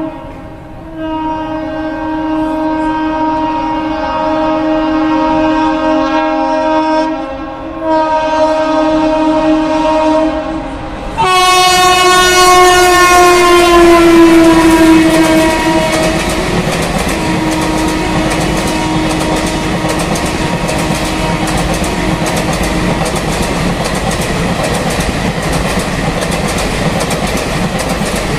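Indian Railways passenger train's horn sounding two long blasts as it approaches. About eleven seconds in, the horn gets louder and its pitch slides down as the locomotive passes. Then the coaches' wheels clatter steadily over the rail joints.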